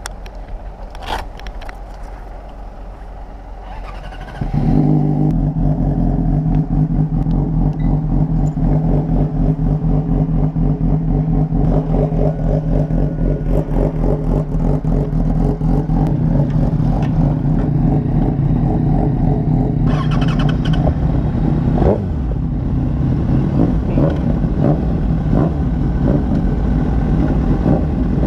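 Sport motorcycle engine starting up about four seconds in and then idling steadily. Its note changes around twenty seconds later, with a few sharper blips just before.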